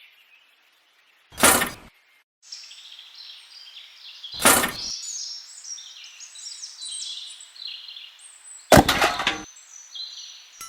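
Small birds chirping and twittering, broken by three short, loud bursts of noise, each about half a second long and a few seconds apart.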